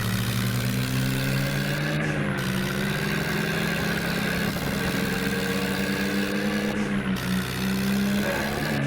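Tractor engine running steadily under load, its pitch rising and falling slightly.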